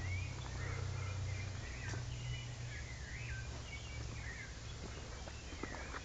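Small birds chirping repeatedly in dense forest, short rising and falling calls through the whole stretch, over a low rumble on the microphone and a few faint footstep ticks.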